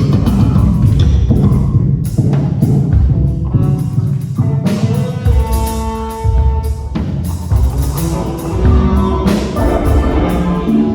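A live band playing a pop song, with drums and guitar.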